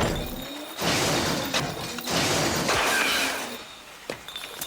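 Three bursts of clattering, crashing noise, each about a second long, with music underneath; near the end it drops quieter, with two sharp clicks.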